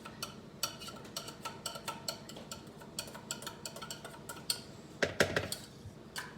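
Metal spoon clinking and scraping against opened tuna cans, with about two or three light clinks a second. A louder clatter of several knocks comes about five seconds in.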